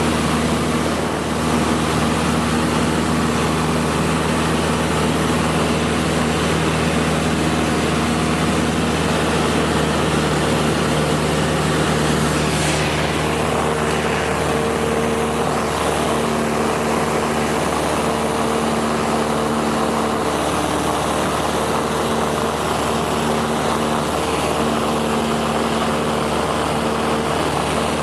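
Cessna 172 SkyHawk II's four-cylinder piston engine and propeller droning steadily in flight, the pitch of the drone shifting slightly about ten seconds in.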